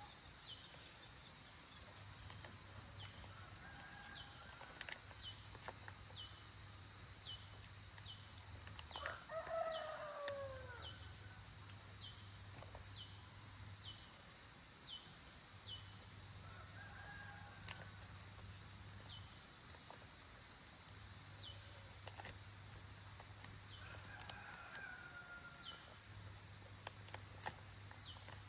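A rooster crows once about a third of the way in, with fainter crows now and then, over a steady high-pitched insect drone.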